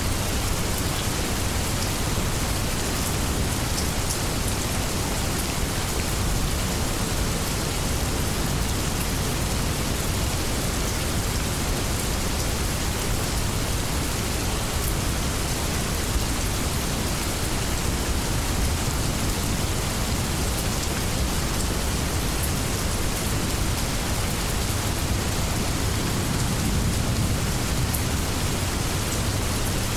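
Steady rainstorm: an even rush of heavy rain with a deep low undertone and a few sharper drop ticks now and then.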